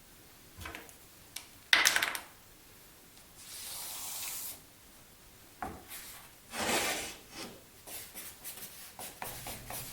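Pieces of MDF and marking tools being handled on a workbench: sliding and rubbing with a couple of sharp knocks, then a run of short quick scratching strokes near the end as the cut line is marked.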